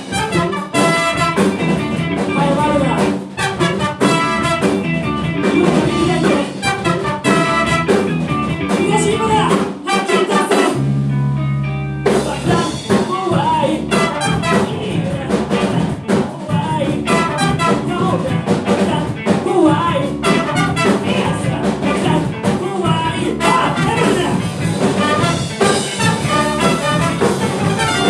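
Amateur band playing funk live. About eleven seconds in, the band breaks for roughly a second on a single held low note, then comes back in full.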